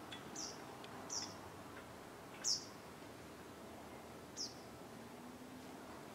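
A small bird's short, high chirps, each dropping quickly in pitch: four calls a second or two apart, the third the loudest, over a faint steady background.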